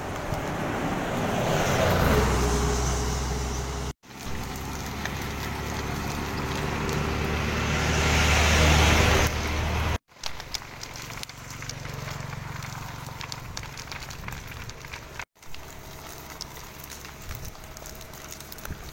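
Road vehicle noise in several short clips joined by abrupt cuts. In the first two clips the sound swells to a peak, and the second cuts off suddenly. The last two clips are quieter and steady.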